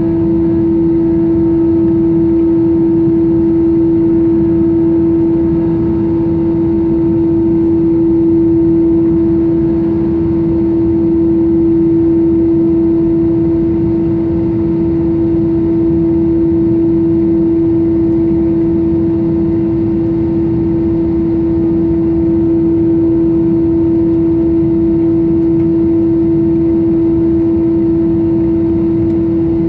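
Airbus A320 cabin noise with the engines running at idle on the ground: a steady low whine with fainter higher overtones over a constant rumble, unchanging throughout.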